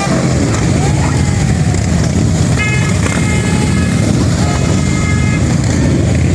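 A steady, loud rumble of many Harley-Davidson motorcycle engines running as the bikes ride past. About two and a half seconds in, a horn gives a short toot and then a held blast of nearly three seconds.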